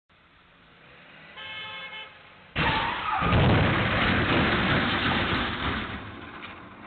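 A car horn honks briefly, then a sudden loud rush of noise starts about two and a half seconds in and slowly fades over the next few seconds.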